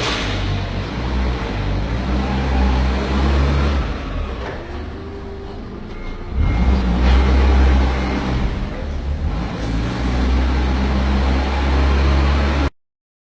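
Forklift engine running steadily, dropping back for a couple of seconds and then revving up again about six seconds in. The sound cuts off abruptly near the end.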